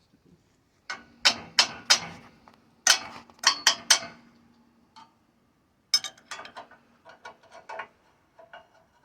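Hammer striking steel parts to knock them into alignment: two quick groups of sharp blows, then a run of lighter taps, with the steel ringing under the blows.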